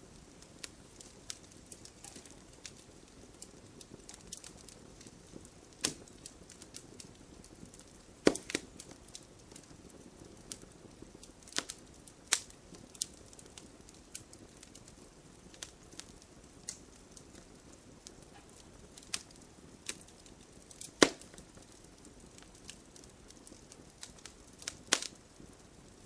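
Wood fire crackling in a fireplace: irregular sharp pops and snaps over a low steady rumble of flames, a few pops much louder than the rest.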